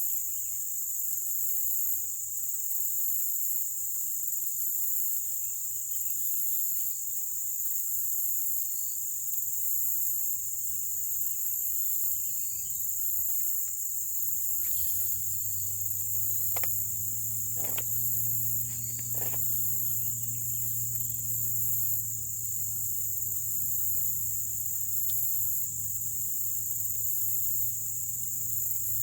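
A steady, high-pitched insect chorus with a faint pulse, with a few faint chirps beneath it. About halfway through, a low steady hum comes in, and a few sharp clicks follow soon after.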